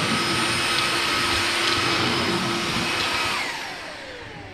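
Vactidy cordless stick vacuum running steadily with a high whine over its suction noise. About three seconds in it is switched off, and the motor winds down with a falling pitch.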